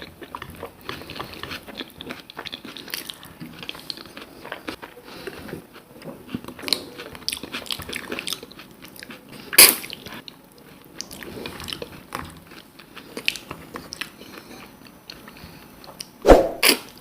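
Close-up eating sounds: a person chewing and crunching food with many small wet clicks and smacks, and two louder sharp crunches or knocks, one about ten seconds in and one near the end.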